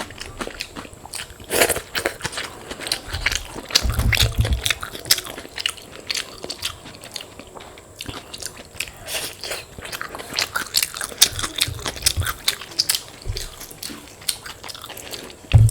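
Close-up eating sounds: someone biting and chewing crisp fried food, with irregular crunches throughout and a few low bumps.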